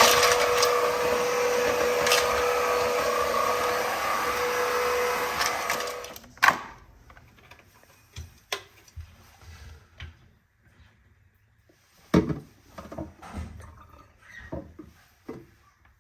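Aspiron CA-022 wet/dry cordless vacuum running steadily with a constant whine, then shutting off about six seconds in. A sharp click follows, then scattered light knocks and handling noises.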